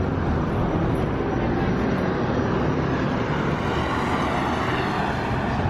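Steady street traffic noise from cars on a busy boulevard, with one vehicle passing close by a little past the middle.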